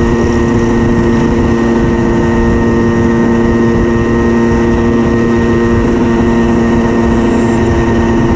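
Tuned 90 cc reed-valve two-stroke single engine of a Simson moped running at steady revs, a constant buzzing tone that holds one pitch throughout, over a rough low rumble.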